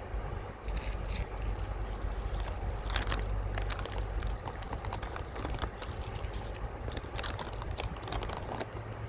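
River water splashing and trickling over stones, heard as a stream of irregular small clicks and splashes over a steady low rumble.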